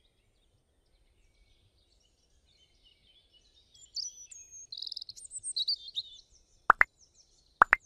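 Birds chirping in a quick run of short, gliding calls for a few seconds, starting after a quiet opening. Near the end come two sharp, loud clicks, the sound effect of the like-and-subscribe animation's button presses.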